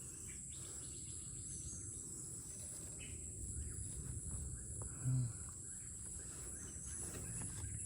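Steady high-pitched insect chorus, with a brief low voice sound about five seconds in.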